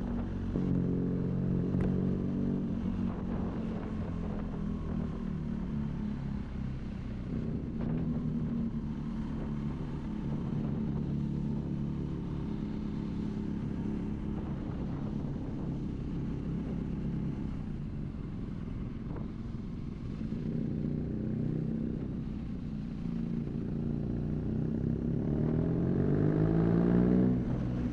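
BMW R nineT's boxer twin running through an aftermarket Arrow exhaust while riding at a fairly steady pace. Near the end the engine note climbs steadily as the bike accelerates, then falls away sharply.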